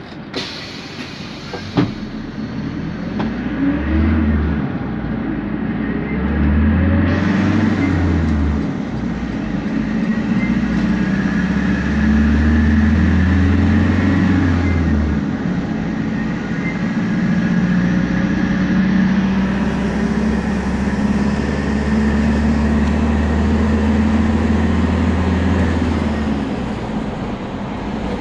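Temsa Prestij SX midibus heard from inside the cabin, pulling away and accelerating through its gears: a low engine drone that swells and drops back in steps, with turbo and differential noise. Two sharp clicks near the start.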